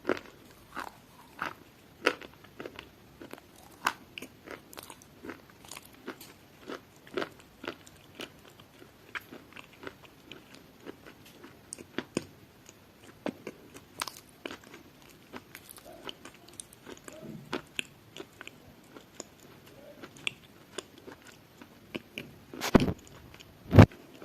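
Crunchy food being bitten and chewed close to the microphone: irregular sharp crunches, a few a second, with two much louder thumps near the end.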